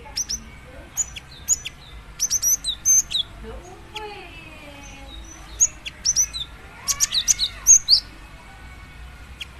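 Female cinereous tit (gelatik batu) calling to a male: sharp, high chirps in quick clusters, one run lasting to about three seconds in and a second, denser run from about five and a half to eight seconds in.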